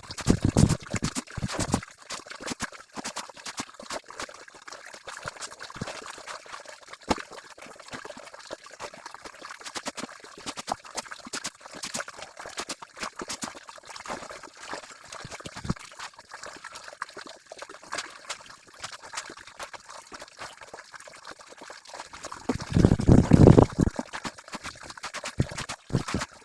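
Water trickling, dripping and splashing during manual laundry washing, with heavier sloshing near the start and again near the end.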